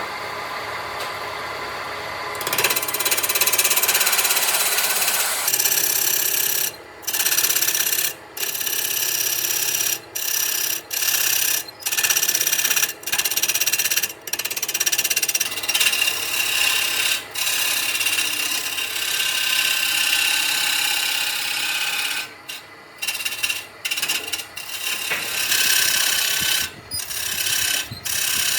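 Handheld power tool working wood: a loud, mostly high-pitched running noise that stops for a moment and starts again many times, most often in the second half.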